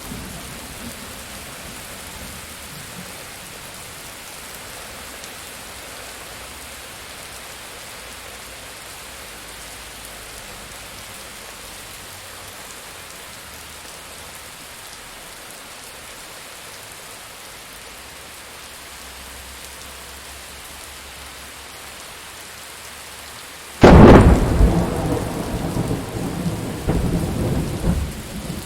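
Steady rain falling, then about 24 seconds in a sudden, very loud thunderclap that rolls on as rumbling thunder.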